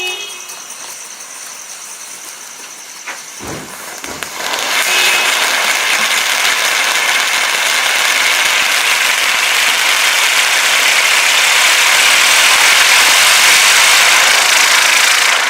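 Winda Cosmic Spin consumer firework burning: a low thump about three and a half seconds in, then a loud, steady hiss that starts about four seconds in, runs for about eleven seconds and cuts off near the end.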